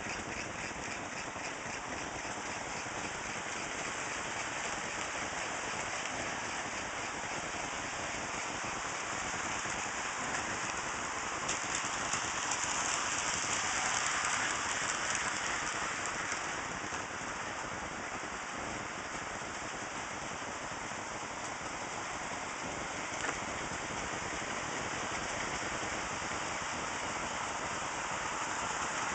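HO scale model trains running on the layout: a steady rush of small wheels on rails and motor noise, growing louder about twelve seconds in as a train comes nearer, then easing off.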